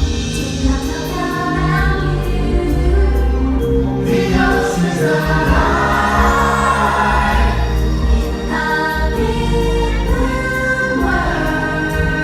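Stage musical's music with a choir singing sustained chords.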